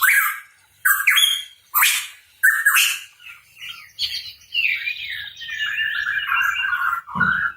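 Pitohui calling: a string of short, harsh squawk-like calls about once a second, then a longer warbling chatter that starts about four seconds in, and one louder call near the end.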